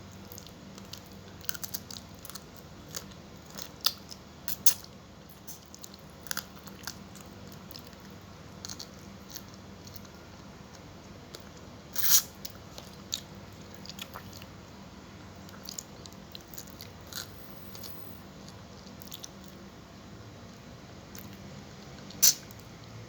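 Close-up eating sounds of a person chewing and biting into fried tilapia, with scattered crisp crunching clicks and a few louder ones, the loudest about halfway through and near the end.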